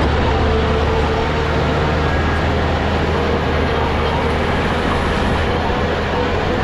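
Heavy diesel engine of a bulldozer running steadily, with a deep constant drone and a steady higher tone over it.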